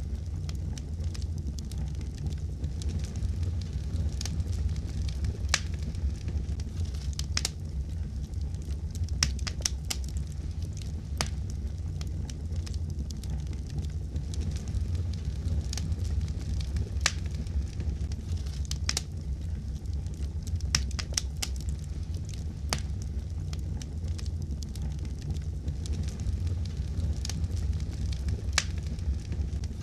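Wood fire crackling in a fireplace: a steady low rumble of flames with many irregular sharp pops and snaps.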